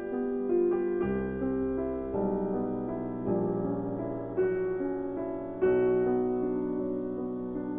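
Background piano music: a gentle, slow keyboard piece with struck chords and notes that ring and fade.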